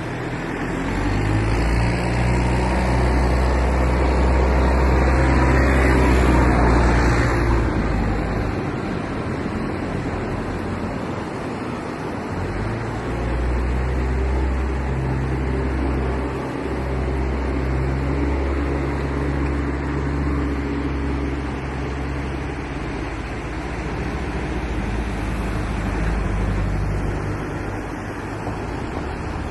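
Motor engines running with a low hum that fades and returns, loudest as one passes about six to seven seconds in, over a steady rushing noise.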